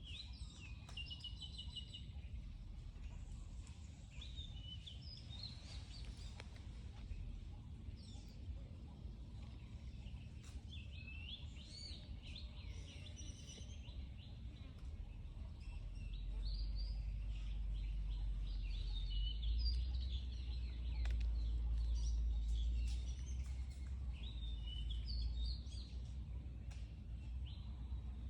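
Small birds chirping and calling in short repeated phrases, over a low steady rumble that grows stronger about halfway through.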